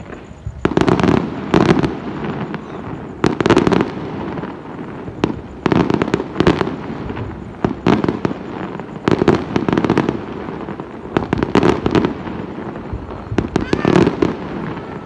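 Aerial fireworks shells bursting in quick volleys, a sharp bang about every second, often two or three close together, each trailing off in an echoing rumble.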